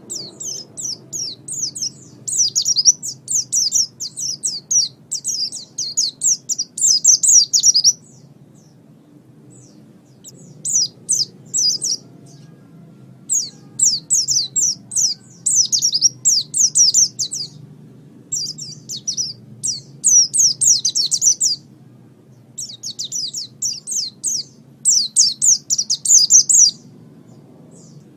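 White-eye (pleci) singing: fast, high twittering phrases of one to several seconds, broken by short pauses. A faint low hum lies underneath.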